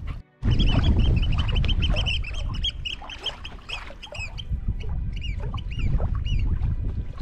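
A bird calling over and over, a quick run of short, shrill notes that stops about six seconds in, over a low rumble of wind on the microphone.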